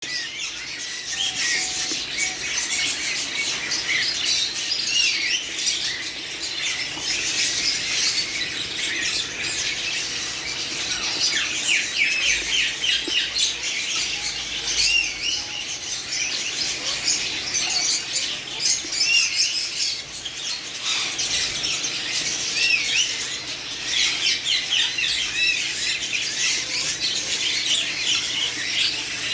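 Many small caged birds chirping and squawking together in a dense, continuous chatter of quick high notes.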